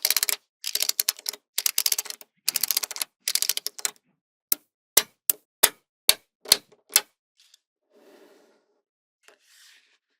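Small magnetic balls clicking and rattling together: rapid clattering runs of clicks for the first four seconds, then about seven single sharp clicks as balls snap into place, followed by faint rustling.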